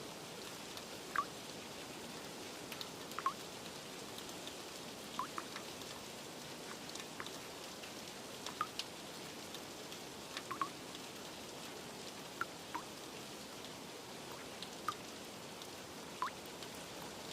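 Steady rain hiss with a dozen or so water drops plinking one at a time, scattered a second or two apart.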